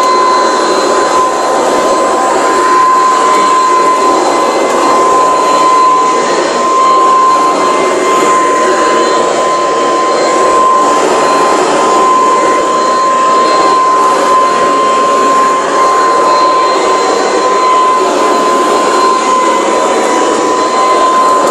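Hoover Decade 800 vacuum cleaner motor running steadily with a constant high whine and even level, no longer surging in power after a replacement motor was fitted.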